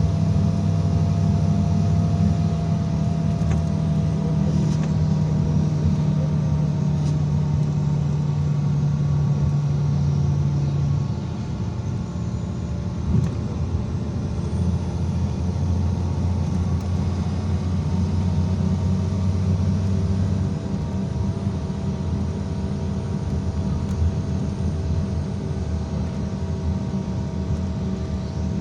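IVECO Crossway 13M PRO city bus driving, heard from inside: a steady low engine drone with a faint whine above it and road noise. The drone shifts in pitch twice, about a third and about two-thirds of the way through.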